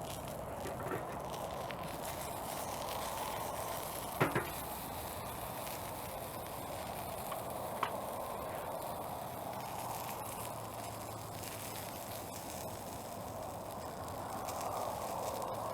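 Wood fire burning in a homemade pail-can wood stove: a steady rushing hiss with a few sharp crackling pops, the loudest about four seconds in.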